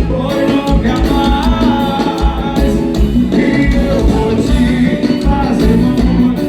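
Live forró band music with a singer over a steady bass-drum beat.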